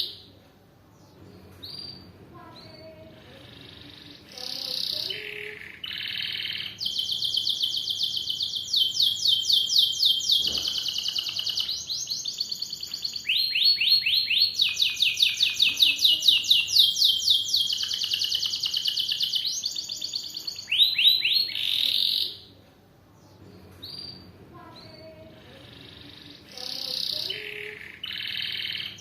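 Domestic canary singing: a few seconds of soft, scattered notes, then a long run of loud, fast, rolling trills, each made of quickly repeated high notes. Near the end the soft notes return, and the trills start up again.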